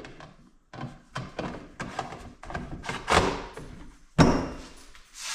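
A run of knocks, clicks and thuds from a cordless chainsaw's plastic body being handled, with two louder thuds about three and four seconds in.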